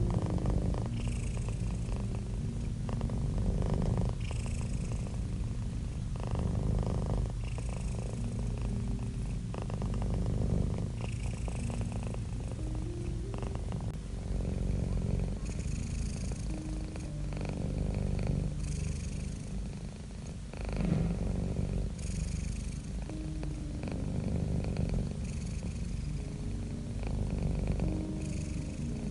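Domestic cat purring close up, a low steady purr that swells and fades with each breath, about once every second or two.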